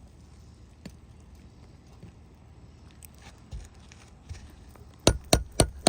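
A shingle hammer striking a nail puller in a quick run of sharp blows, about four a second, starting about a second before the end, to drive the puller under a roofing nail in an asphalt shingle. Before that only a few faint taps.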